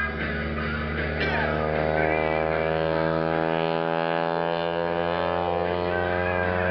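Biplane's piston engine droning steadily as it flies the display, a low hum with many overtones that swells about a second in and holds, over rock music in the background.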